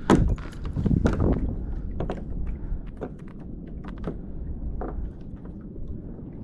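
Irregular knocks and clicks of handling on a kayak, with louder thumps near the start and about a second in, over a steady low rumble of wind and water.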